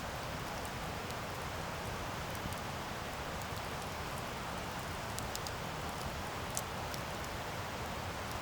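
Wood campfire burning: a steady rush of flames with scattered sharp crackles and pops from the burning wood, one a little louder about six and a half seconds in.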